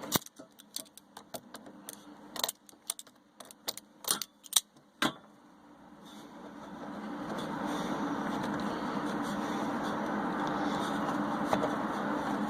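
A run of sharp metallic clicks and clanks from hands and tools working on an ATV. From about six seconds in, a steady rushing noise with a low hum builds up and holds.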